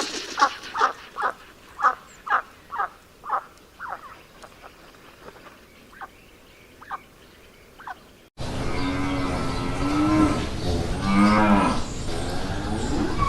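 A run of short clucks from a chicken, about two a second, fading out. About eight seconds in, the audio cuts suddenly to a cow mooing with long, low calls.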